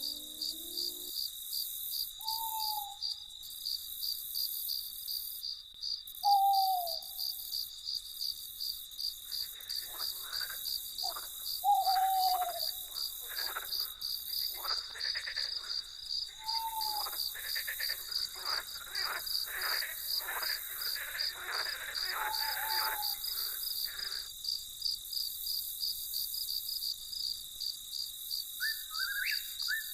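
Crickets chirping steadily in a fast, even pulsing trill. Over it come a handful of short falling hoot-like calls, a stretch of rapid rasping calls from about ten seconds in to past twenty, and a few quick rising chirps near the end.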